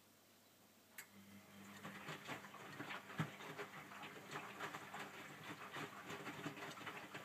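Miele W562 washing machine starting its main wash: a click about a second in, then the drum motor starts humming and the laundry patters and knocks as it tumbles in the drum.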